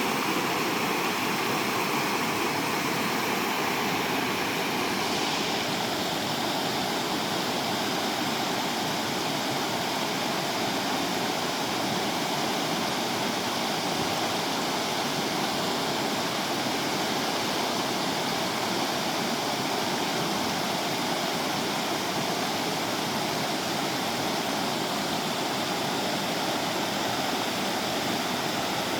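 River water rushing steadily over rocks, a continuous even rush.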